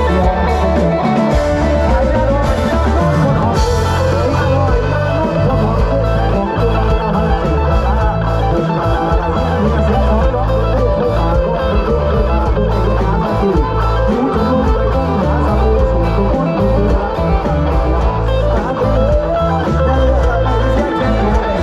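Loud live band music from a Thai rot hae music-truck band: a plucked electric string lead over heavy bass and a steady beat, with no singing.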